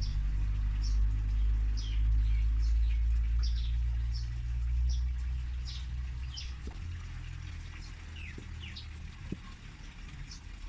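Small birds chirping over and over in short, falling chirps, over a loud low rumble that starts suddenly and eases off after about seven seconds.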